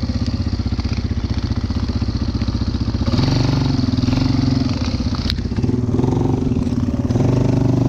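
Yamaha Wolverine ATV engine running while riding, its pitch stepping up about three seconds in and rising and falling with the throttle after that.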